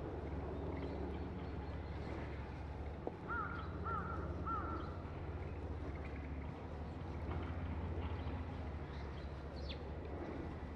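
A bird gives three short arched calls in quick succession about three seconds in, over a steady low rumble of background noise.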